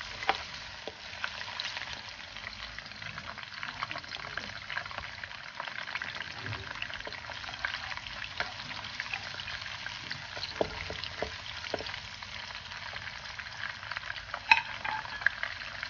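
Sliced shallots, lemongrass and bay leaves sizzling and crackling in hot oil in a nonstick wok as they are sautéed until fragrant, while a wooden spatula stirs them and now and then knocks against the pan.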